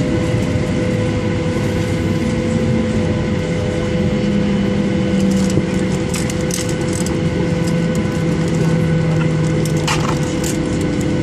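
Boeing 737-800 jet engines running steadily at low power: a loud, even rush with a constant hum and lower tones that shift up and down in pitch. Scattered short crackles, the strongest about ten seconds in.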